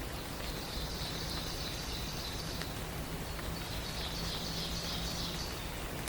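A songbird's high, even trill, given twice, each lasting about two seconds, over a steady rain-like hiss.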